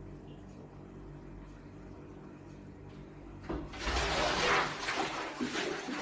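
A cat falling into an aquarium: about three and a half seconds in, water suddenly splashes and sloshes loudly. The splashing goes on over a steady low hum.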